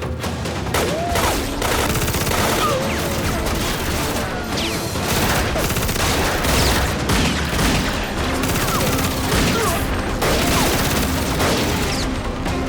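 Sustained rapid gunfire, shot after shot, as in a firefight, with a film score underneath.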